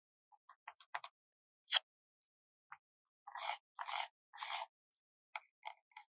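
Close-up paper stickers being handled: small ticks and crackles, a sharper click, then three short scratchy strokes in quick succession, like sticker backing being peeled or rubbed down, and a few more light ticks near the end.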